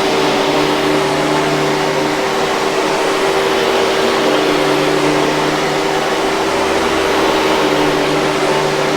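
Hoover 5000 Series canister vacuum cleaner running steadily: an even rush of air with a constant motor tone.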